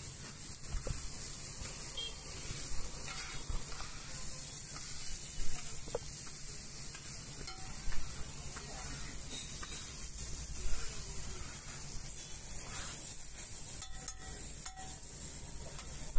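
Chopped okra frying in oil on a flat griddle, a steady sizzle over a low hum. A metal spatula scrapes and taps against the griddle every few seconds as the okra is stirred.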